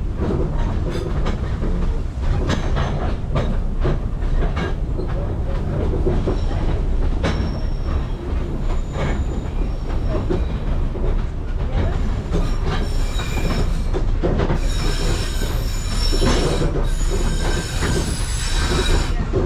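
Double-decker sightseeing train rolling along the rails, a steady low rumble with many short wheel clicks. From about twelve seconds in, the wheels squeal high on the rails, loudest in the last few seconds.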